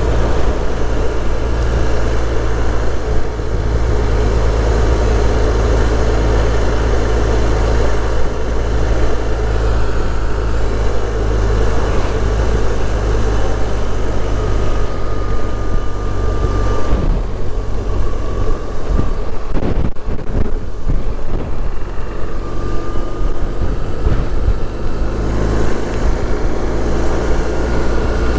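Wind rushing over a motorcycle helmet camera, with a BMW R1200's flat-twin engine running underneath and its pitch gliding up and down. The rushing eases for a few seconds about two-thirds of the way in.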